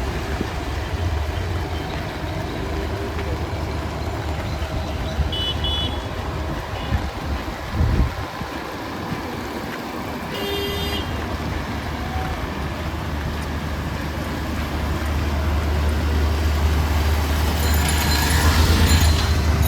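Street traffic: vehicle engines running, with a few short horn toots in the middle and a nearby engine's low rumble growing louder near the end.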